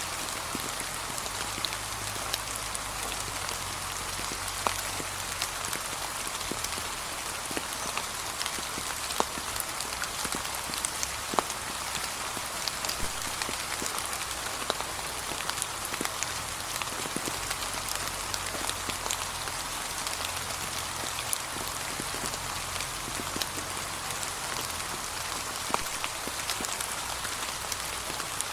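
Steady light rain falling, an even hiss with scattered individual drops ticking on fallen autumn leaves.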